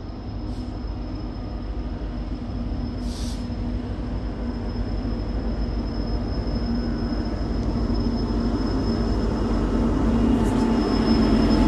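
Diesel freight train locomotive approaching slowly, its engine rumble growing steadily louder.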